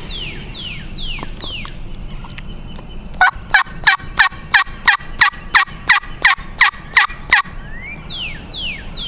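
A run of about thirteen loud turkey yelps, evenly paced at about three a second. A songbird's repeated downslurred whistles come before and after them.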